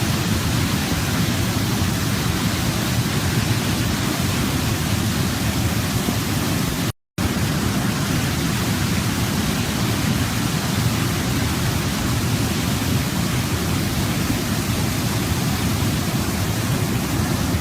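Waterfall, a steady rush of falling water, cut by a brief total dropout to silence about seven seconds in.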